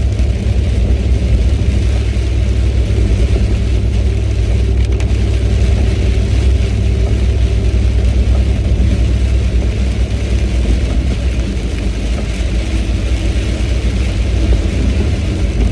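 Steady road noise inside a car's cabin at highway speed: a low engine and tyre rumble with a constant hiss, on a rain-soaked road.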